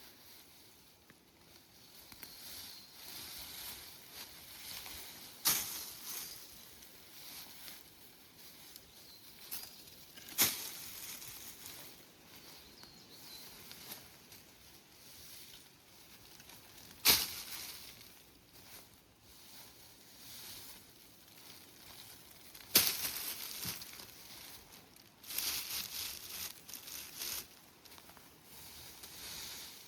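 Rustling of leaves and brush, with four sharp cracks a few seconds apart.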